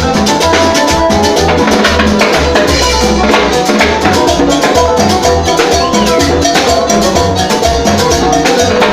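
Live Latin dance band playing an instrumental passage of a rumba-son, with a busy, steady percussion beat over a moving bass line.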